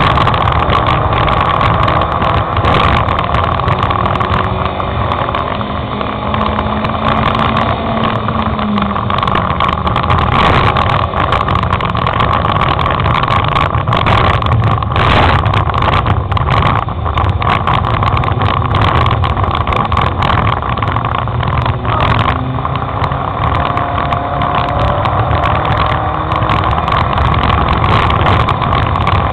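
Race car engine running hard, recorded from on board while the car drives on a dirt track, its revs rising and falling, with frequent short knocks and rattles throughout.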